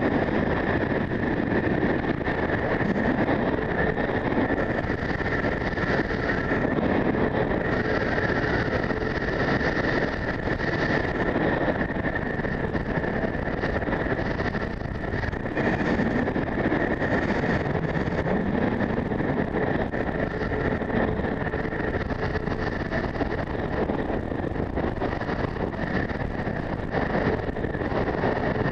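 Strong gusty wind buffeting the microphone in a continuous loud rush that swells and eases every few seconds, with a steady high tone running through it.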